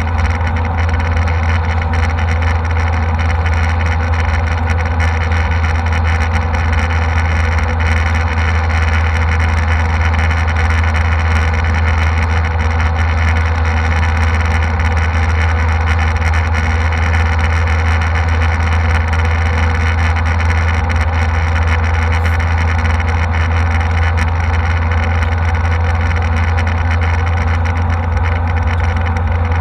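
Steady cabin noise of a jet airliner: a loud, unchanging low drone with a hiss above it.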